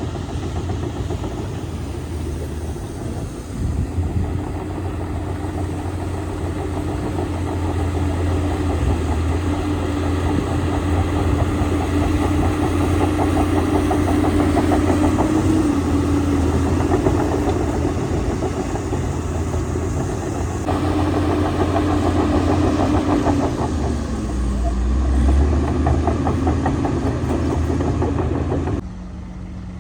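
Shantui DH17C2 bulldozer's diesel engine running hard under load, a steady loud drone with a whine over it. The whine's pitch dips briefly about three-quarters of the way through, and the sound changes abruptly near the end.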